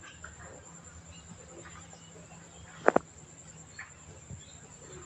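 Steady high-pitched insect chirring, with two sharp clicks close together about three seconds in.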